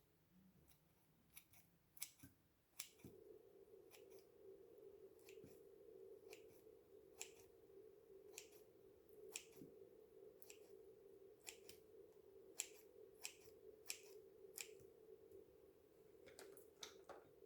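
A series of sharp, separate clicks or snips at irregular spacing, roughly one a second. A steady low hum comes in abruptly about three seconds in and runs on underneath.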